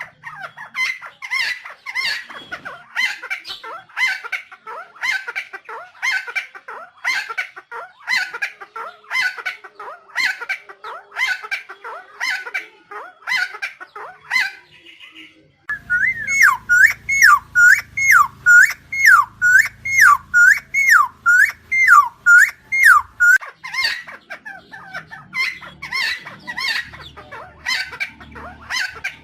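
Helmeted friarbird (Philemon buceroides) calling: a fast run of harsh repeated notes, about two a second. About halfway through, after a brief pause, it switches for some seven seconds to looping rising-and-falling whistled notes at the same pace, then goes back to the harsh notes.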